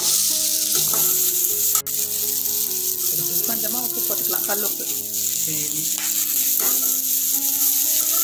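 Chopped broad beans frying in hot oil in a metal kadai, with a steady sizzle as they are stirred with a metal spatula.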